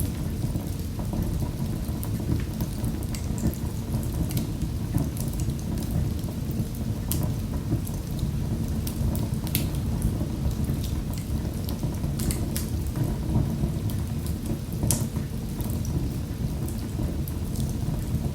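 Wood fire in a fireplace crackling: a steady low rumble from the flames with frequent sharp pops and snaps.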